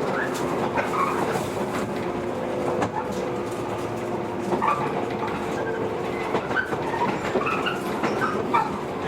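Running noise inside a JR 115 series electric multiple unit, heard from the passenger cabin as the train slows for a station: steady wheel and rail noise with faint motor hum. Short squeaks are scattered throughout, with a few clicks.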